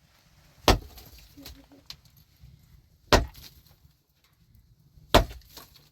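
Three heavy chopping blows from a hand tool, about two to two and a half seconds apart, each a sharp single strike.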